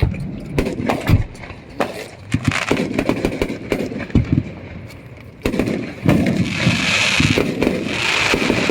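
Fireworks going off: a scatter of sharp bangs and pops, then about five and a half seconds in a steady hissing crackle sets in and continues.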